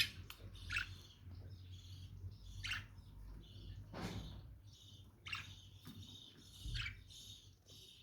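Lovebirds chirping and chattering, with about five short, sharp calls spaced a second or two apart over a steady high twittering.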